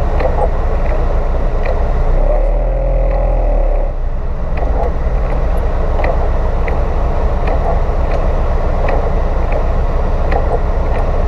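Off-road 4x4's engine running steadily at idle with the vehicle standing still in falling rain. A deeper steady hum comes in for about two seconds, starting about two seconds in. Faint ticks recur about every 0.7 seconds.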